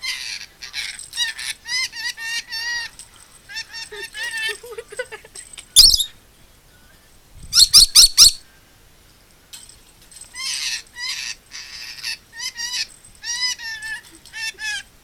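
Rainbow lorikeet chattering in runs of short, squeaky calls that bend up and down in pitch, with one sharp screech about six seconds in and four loud shrill screeches in quick succession around eight seconds.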